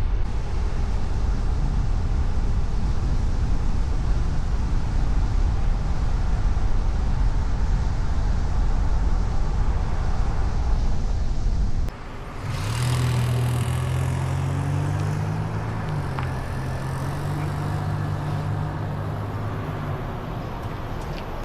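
A steady low rumble, then about twelve seconds in an abrupt change to a vehicle engine running with a steady hum whose pitch shifts once a couple of seconds later.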